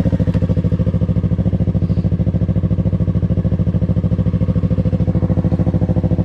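2020 Yamaha R3's parallel-twin engine idling steadily through an aftermarket M4 Street Slayer exhaust, with an even, rapid pulsing beat and no revving.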